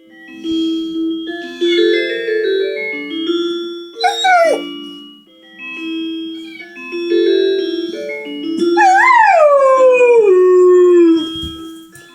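A dog howling along to a phone's alarm tone: a short howl falling in pitch about four seconds in, then a long loud howl near nine seconds that rises and slides slowly down, over the alarm's repeating melody.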